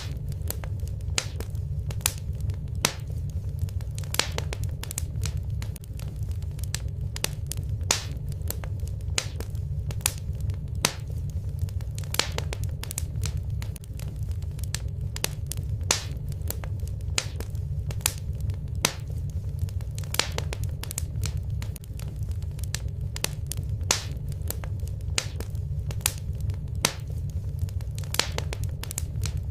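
Fireplace fire burning steadily: a low rumble under constant irregular crackling and sharp pops, several a second.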